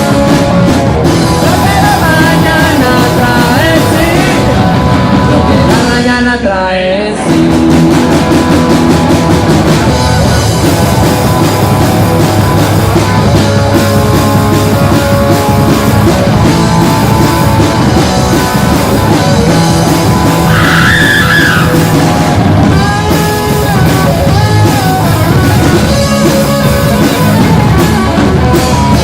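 Live rock band playing loud and continuous: electric guitars, bass and drum kit. There is a brief break about six seconds in.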